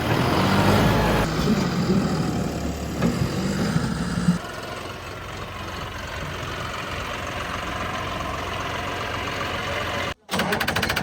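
Diesel tractor engine running, louder for about the first four seconds and then steadier and quieter. After a sudden cut about ten seconds in, it chugs in a fast, even beat.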